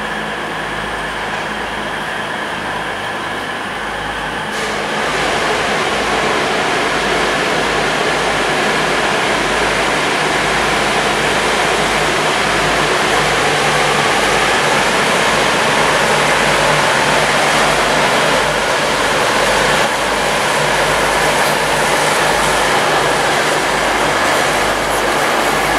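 V/Line VLocity diesel multiple unit's engines running as the train pulls out and passes close by. It grows louder about five seconds in, then holds a steady engine drone over wheel and rail noise.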